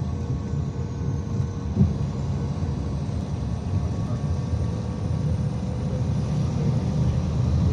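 IVECO Crossway 13M city bus under way: a steady low engine and road rumble, with one short knock a little under two seconds in.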